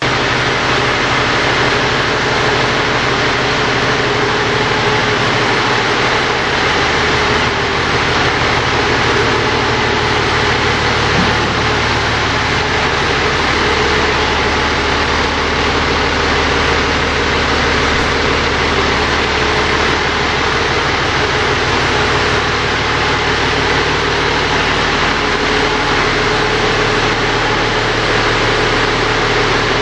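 Fire engine's engine running steadily, a constant low hum under a loud even rush of noise, the hum shifting slightly a few times.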